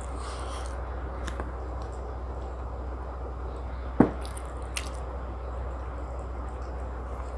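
Close-miked eating sounds of chicken biryani and tandoori: wet squishing and biting from the mouth over a steady low hum, with a sharp click about four seconds in.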